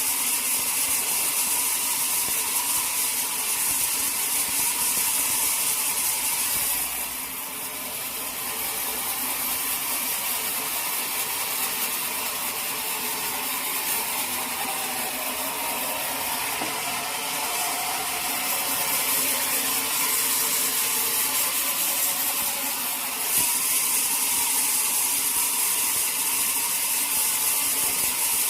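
Sawmill machinery running with a steady, hissing mechanical noise heavy in the high end. It eases off briefly about seven seconds in and picks up again about two-thirds of the way through.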